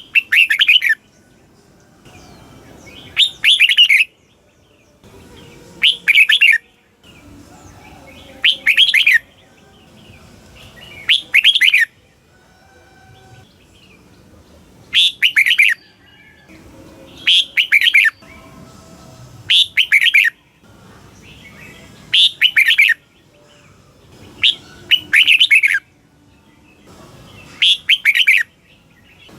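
Red-whiskered bulbul singing: short, loud phrases of quick up-and-down notes, each about a second long, repeated every two to three seconds.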